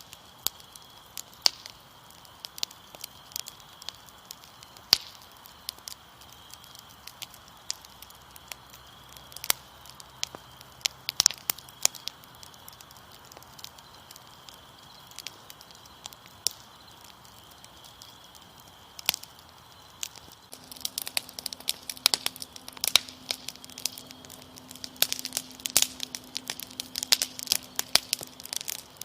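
Wood fire crackling with sharp scattered pops over a steady chirping of crickets. The crackling grows denser and louder about two-thirds of the way in.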